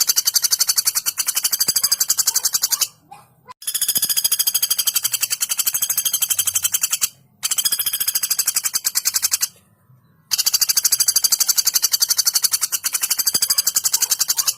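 Female common flameback woodpecker giving its fast, tightly spaced rattling call: four long high-pitched trills of rapid notes, broken by short pauses about three, seven and ten seconds in.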